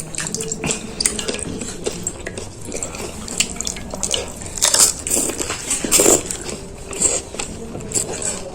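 Close-up eating of panipuri: crisp puri shells crunching and wet chewing of the water-filled puris, with the loudest crunches about five and six seconds in.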